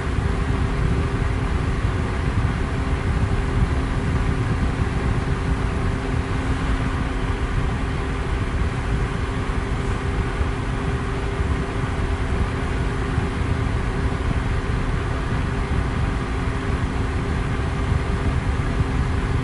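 Electric fan running steadily: an even rush of air, heaviest in the low end, with a faint steady hum under it.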